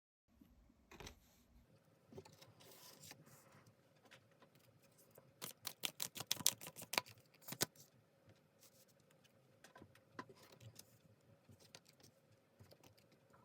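Tarot cards being handled on a table: faint soft rustling with a quick run of sharp card snaps and clicks about halfway through.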